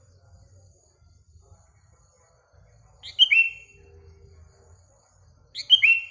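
Sooty-headed bulbul (kutilang) singing short, loud phrases twice, about three seconds in and near the end, each a quick bubbly cluster of notes falling in pitch.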